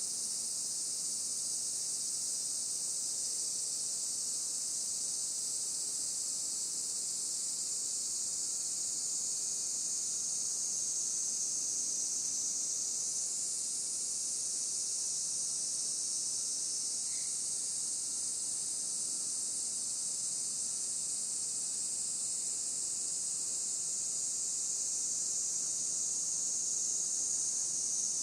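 A chorus of insects: a steady, unbroken high-pitched drone that never pauses.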